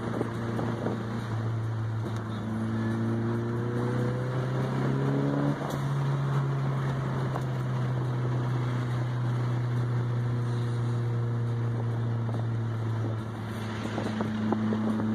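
Car engine running while driving, heard from inside the cabin, with road and wind noise. The engine note steps up about five and a half seconds in and drops back down near the end.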